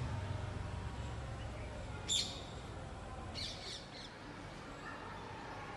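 A bird chirping: one sharp high call about two seconds in, then a short run of quick high chirps a second later.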